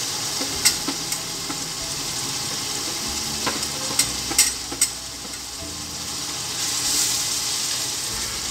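Steady sizzling hiss from a pot of biryani masala, with a metal spoon clicking sharply against a steel plate about five times as spices are spooned in, then stirring in the pot near the end.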